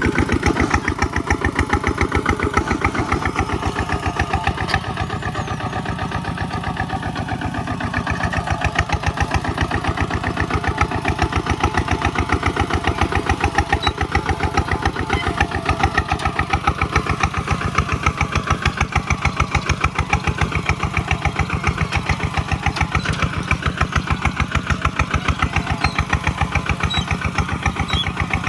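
Single-cylinder Kubota diesel engine running with a steady, even beat.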